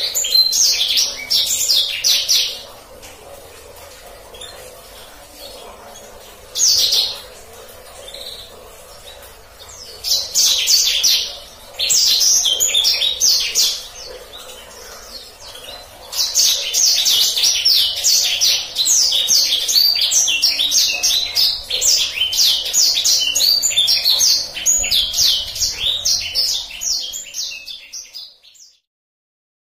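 Black-throated canary (blacksang) singing in fast rolling trills. Several short phrases come first, then one long rolling phrase of about twelve seconds that stops abruptly.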